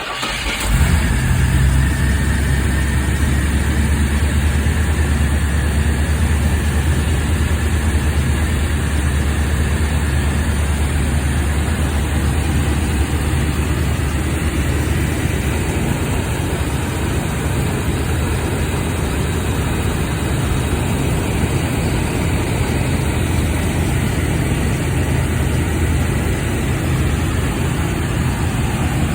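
1982 Chevrolet Camaro Z28's 5.0-litre V8 idling just after a cold start. It picks up about a second in, then runs at a steady idle.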